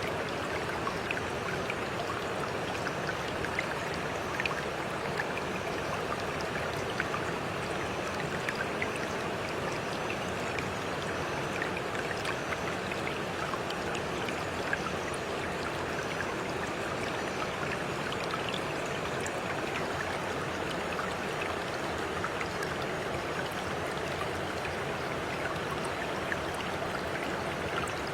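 Flowing water: a steady, even rush with small splashing ticks scattered through it.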